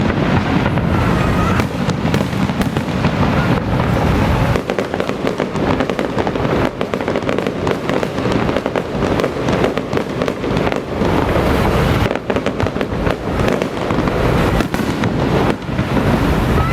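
Fireworks going off in a dense, rapid string of loud cracks and bangs with no letup.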